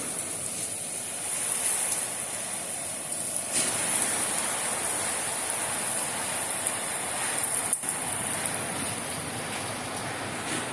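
Heavy thunderstorm rain pouring down steadily, an even hiss of water.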